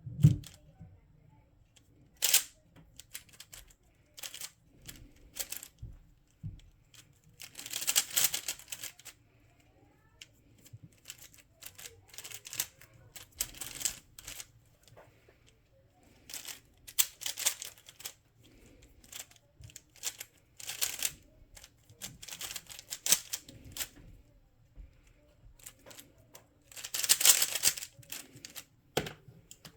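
Plastic speed cube being turned by hand: bursts of fast clicking turns, a second or so at a time, broken by short pauses with a few single clicks, and a sharper knock near the end.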